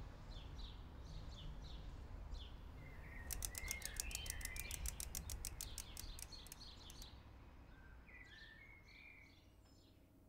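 Small birds chirping and twittering outdoors, with a fast trill of about seven notes a second in the middle, over a faint steady low rumble of background noise that fades out near the end.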